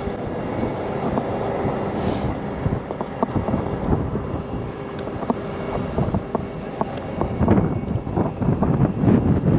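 Heavy truck diesel engine running steadily, with wind buffeting the microphone and scattered small clicks and knocks; the wind gusts get rougher near the end.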